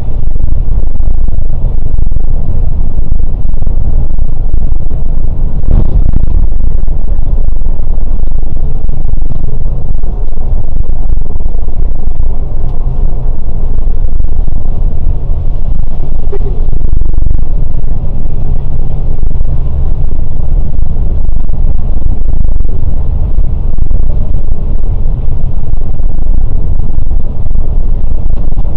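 Scania K410 coach's 13-litre six-cylinder diesel engine running steadily under way, a loud, constant low rumble.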